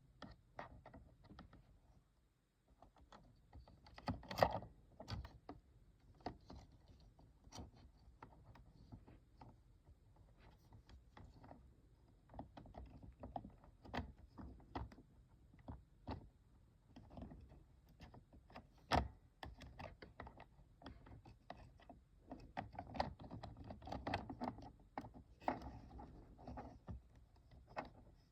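Irregular small clicks and taps of hands handling the toy aquarium's plastic parts and gears during a rubber-band repair, with a louder knock about four seconds in and another near the middle.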